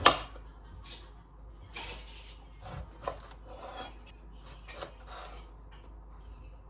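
A sharp knock right at the start, then a series of short scraping and rubbing noises with a few small clicks, like objects being handled and rubbed against a surface.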